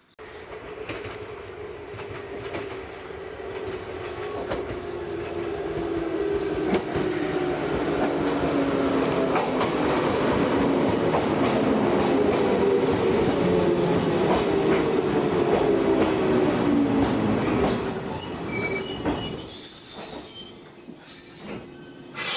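Old JNR-type electric train approaching and growing louder over several seconds, its motor whine falling steadily in pitch. Near the end come high-pitched wheel squeals.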